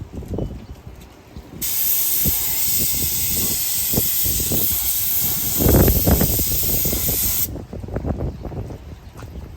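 A steady high hiss, like pressurised air or spray, that starts abruptly about a second and a half in and cuts off abruptly about two seconds before the end. Scattered knocks and clunks sound throughout, with a louder burst of thumps near the middle.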